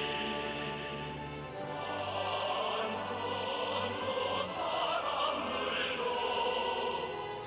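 Choral and orchestral music: a choir singing sustained lines over an orchestra.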